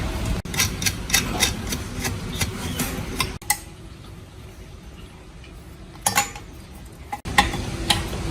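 Metal tools and parts clinking and tapping in quick, irregular strokes over a steady low hum. The sound drops suddenly to a quieter stretch with only a few clicks, then comes back louder near the end.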